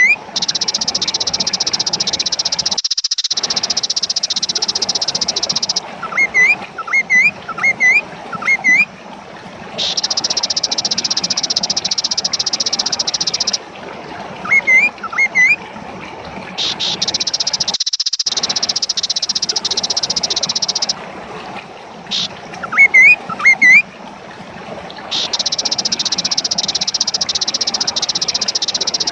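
Kaso-kaso bird calling: clusters of three to five short, sharp rising notes, repeated every few seconds. These alternate with stretches of a dense, high-pitched buzzing drone that switches on and off abruptly.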